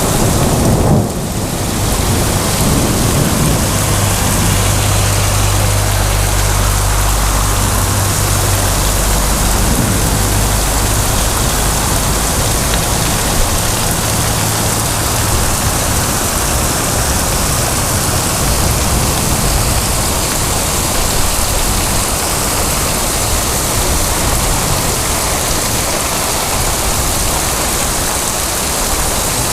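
Heavy rain pouring steadily in a thunderstorm, with a long low rumble of thunder through the first half.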